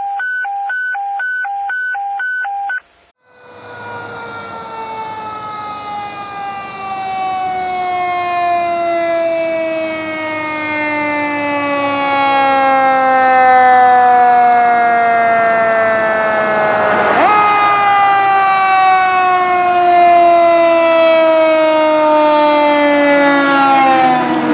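A short pulsing electronic beep, about two a second, then a Federal Q mechanical siren on a fire truck winding down in a long, slowly falling wail. About two-thirds of the way through it is spun up again with a sudden jump in pitch and then coasts down once more, with the truck's engine running underneath.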